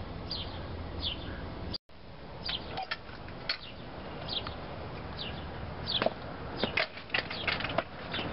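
A small bird chirping: short, high, falling chirps repeated a little more than once a second. A run of sharp clicks and taps comes in over the last couple of seconds.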